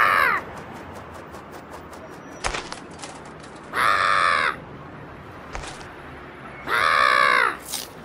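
Harsh bird squawks, three calls about three seconds apart, each under a second long and arching in pitch, with a couple of faint knocks in between.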